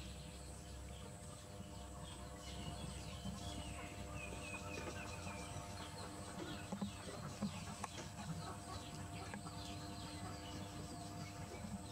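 Faint bird calls and chirps over a steady low hum, with a few short sharp knocks a little past the middle.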